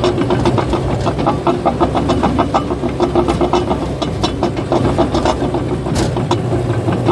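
Caterpillar bulldozer working: its diesel engine running steadily under a fast, even clatter of the steel tracks, about five or six clanks a second.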